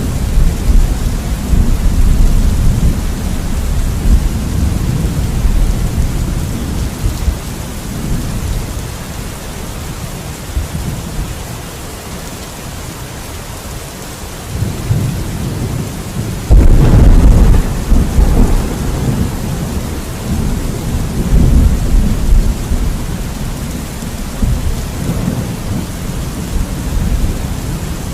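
Steady rain with thunder. A low rumble fades away over the first twelve seconds or so, then a sudden loud thunderclap comes about sixteen and a half seconds in and rumbles on for a couple of seconds, followed by further rolling rumbles.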